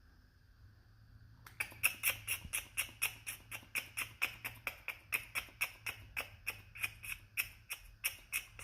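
Squirrel giving an alarm call: a rapid, even run of sharp chirping calls, about four to five a second, starting about a second and a half in and stopping abruptly near the end.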